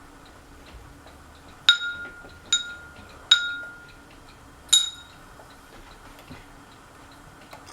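Four sharp metallic clinks, irregularly spaced over about three seconds. Each rings briefly at a single high pitch. Underneath them is a faint steady hum.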